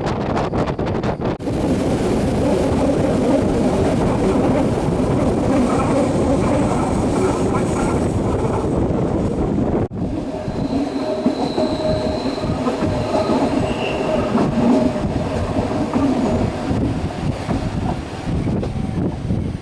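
Train running on rails, a steady rumble with rattling, and a faint high wheel squeal in the second half. The sound changes abruptly about a second and a half in and again about ten seconds in.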